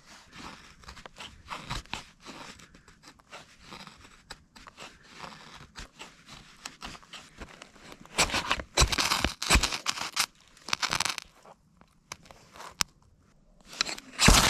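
Fatwood being pried and torn loose: irregular crunching, cracking and scraping of wood, with louder bursts of splintering about two-thirds of the way through and again near the end.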